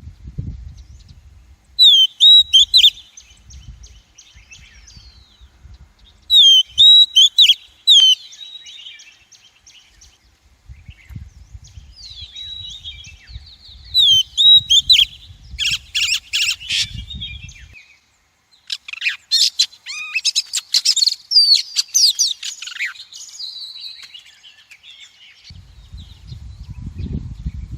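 Female Oriental magpie-robin singing: loud, sharp whistled notes and chattering phrases in repeated bursts with short pauses between them.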